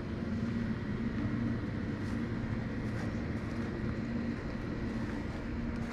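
A steady low mechanical hum with a constant low drone, even in level throughout.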